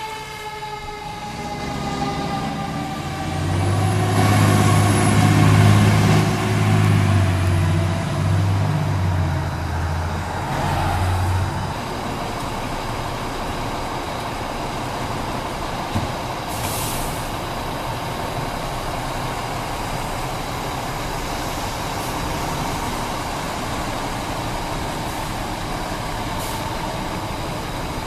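Spartan fire apparatus responding: a siren winds down in the first few seconds, then a loud, deep pulsing tone comes from the passing truck for several seconds. After that a steady rumble of heavy engines carries on.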